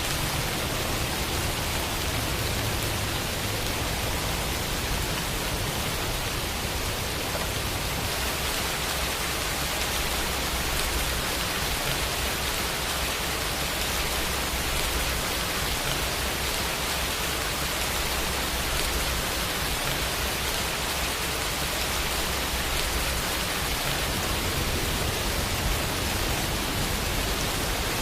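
Steady rain falling, an even hiss of drops with a low rumble underneath and no breaks.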